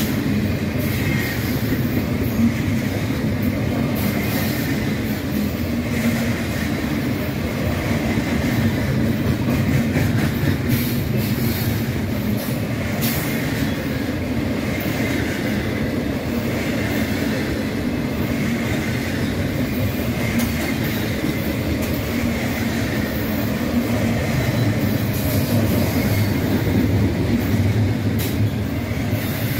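Double-stack intermodal freight train's loaded well cars rolling past close by: a steady rumble of steel wheels on the rails, with a faint wavering wheel squeal coming and going.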